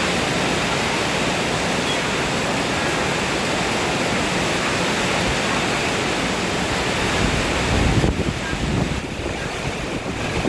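Heavy rain pouring down in a storm, a dense steady hiss. About eight seconds in, a gust of wind buffets the microphone with a low rumble.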